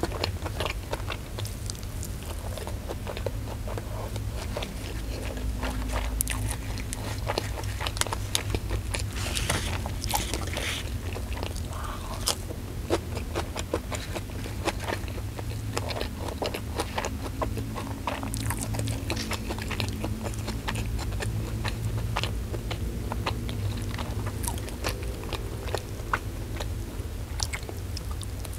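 Close-up eating sounds: a person chewing and crunching fried chicken, rice and raw lettuce eaten by hand, with many small wet clicks and crunches over a steady low hum.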